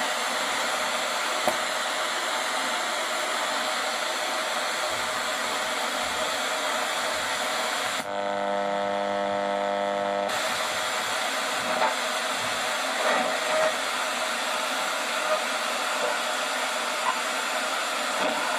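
Restored Sony radio giving a steady static hiss from its speaker, as between stations. About eight seconds in the hiss gives way for about two seconds to a buzzing tone, then the hiss returns.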